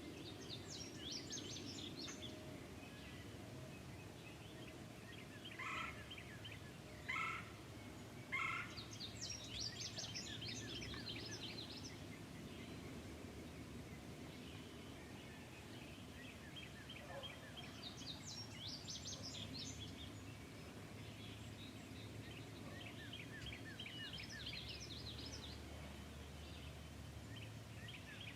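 Birds calling and singing: repeated quick, high trills and chirps over a steady low background noise, with three short, louder calls about a second and a half apart.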